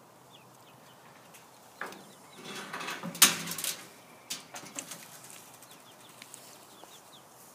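Chickens in a coop clucking, with faint short peeps throughout and a louder stretch of calls about two to four seconds in. A sharp knock about three seconds in is the loudest sound.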